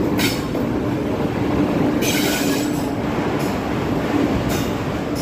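Locomotive-hauled passenger express passing close by through a station: a steady rumble of wheels on rail, broken by brief high-pitched wheel squeals, the longest about two seconds in and lasting about a second.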